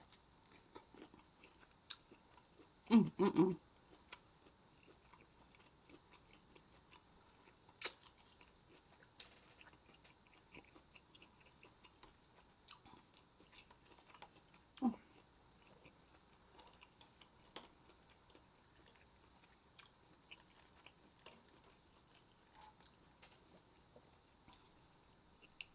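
Close-miked eating of seafood boil: soft chewing, mouth and lip sounds and small clicks of food being handled, with one louder, brief sound about three seconds in and another near fifteen seconds.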